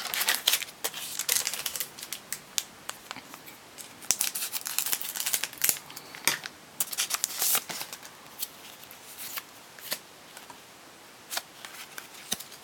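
A foil Pokémon card booster pack being opened and its cards handled: irregular crinkling, crackling and clicking of the wrapper and card stock, in clusters with short pauses.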